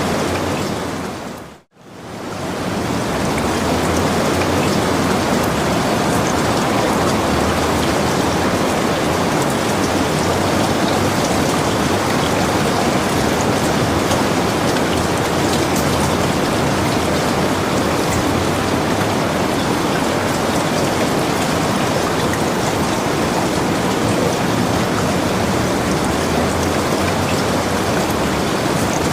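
Steady, dense rainfall. Just under two seconds in it fades out quickly to near silence and swells back in over about two seconds, like the join of a looped recording.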